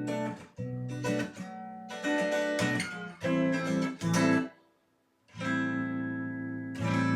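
1997 Squier Jagmaster electric guitar played clean through an amp: a run of strummed chords, a short stop about five seconds in, then two chords left to ring out.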